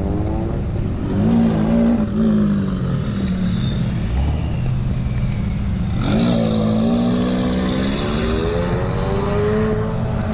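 Car engine revving and accelerating, its pitch rising and falling. About six seconds in it surges louder and the note climbs steadily for several seconds as the car pulls away.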